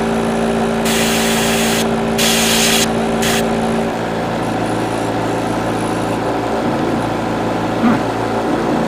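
Small airbrush compressor running with a steady motor hum, with three short hisses of airbrush spray in the first three and a half seconds. About four seconds in, the compressor's hum drops to a lower pitch.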